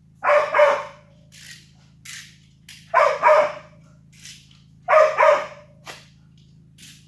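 A dog barking in pairs: three loud double barks about two seconds apart, with fainter barks between them, over a steady low hum.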